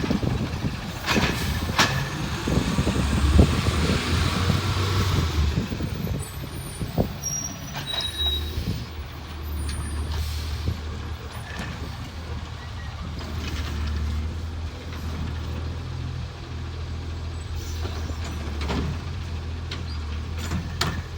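Garbage truck on a recycling route: clanks and a noisy rush over the first six seconds, then the truck's engine running with a steady low drone and occasional knocks.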